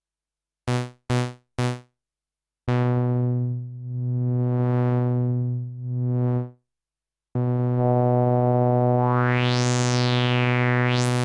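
Sequential OB-6 analog polysynth playing one low sawtooth note with lowpass filter sweeps. First come three short stabs. Then a held note slowly opens to bright and closes again. Then a held note has a resonant filter peak that glides up high, falls, and rises again near the end.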